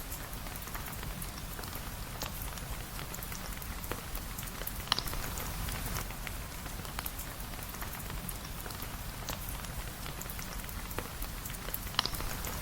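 Steady rain, a continuous hiss of many small drops, with scattered sharp ticks and two louder clicks, about 5 and 12 seconds in.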